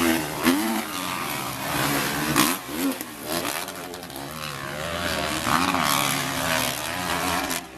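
Motocross motorcycle engines revving, the pitch rising and falling again and again as the bikes race.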